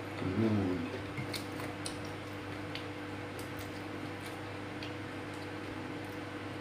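Soft chewing and faint mouth and finger clicks of someone eating rice with his hand, over a steady low hum. A short hummed vocal sound comes about half a second in.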